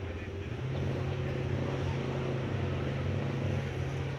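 An engine running at a steady speed, its steady hum getting louder about half a second in and holding there.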